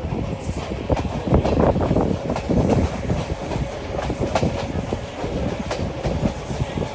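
Train running on the rails, its wheels clattering over rail joints in an irregular run of knocks over a steady rumble.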